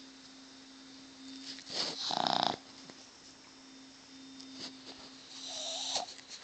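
Boston terrier snoring loudly while asleep: two long snores about three and a half seconds apart.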